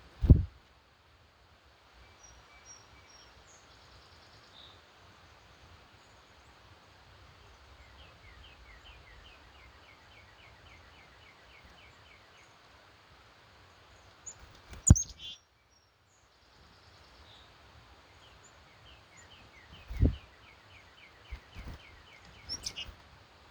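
Birds singing in the early morning: one bird twice gives a quick run of about fifteen repeated chirping notes, over a steady faint outdoor hiss. Brief loud low thumps come near the start, about halfway through and about 20 seconds in.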